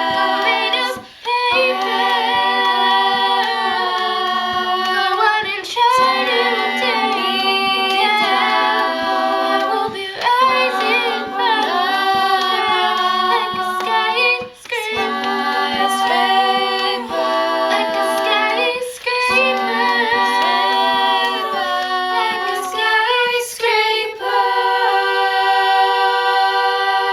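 Female a cappella group singing in close multi-part harmony, with no instruments, phrase after phrase with short breaks between. It ends on a held chord that cuts off at the very end.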